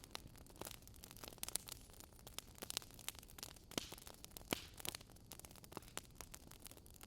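Wood fire crackling: irregular sharp pops and snaps, several a second, over a low steady hiss.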